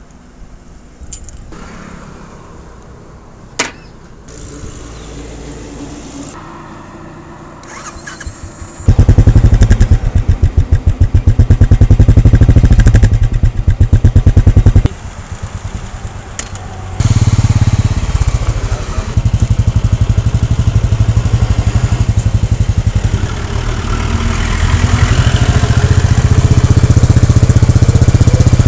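Royal Enfield Bullet 350's single-cylinder engine starting about nine seconds in and running with a loud, fast, even pulse. It drops away for about two seconds, comes back suddenly, and runs on, growing louder near the end. Before it starts there are only fainter handling noises and one sharp click.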